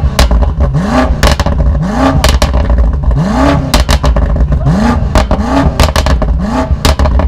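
BMW 4.4-litre twin-turbo V8 revved in quick, short blips, about one a second, with sharp pops and crackles from the exhaust between the blips.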